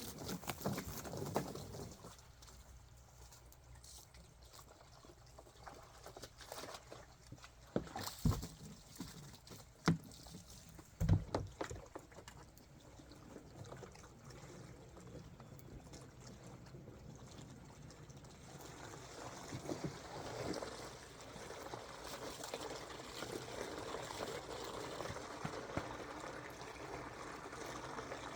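Water pouring into the pigs' water container, with a few knocks in the first half; from about two-thirds of the way in, the pouring grows into a steady, louder rush.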